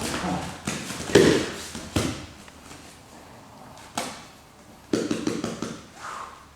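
A few sharp taps and thuds of bodies and hands on a training mat as a grappling arm lock is shifted and pressed, the loudest just after a second in.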